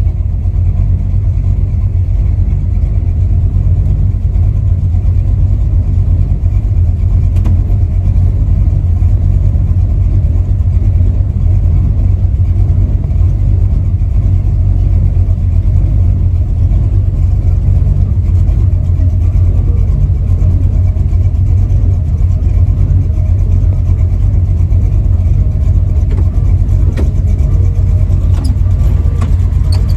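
V8 engine and exhaust of a Chevy LUV pickup under way, a loud, steady deep rumble heard from inside the cab.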